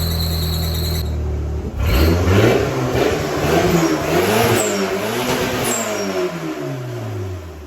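A running car engine with a high steady whine stops about a second in. Then an engine revs up and down several times before its pitch falls back near the end.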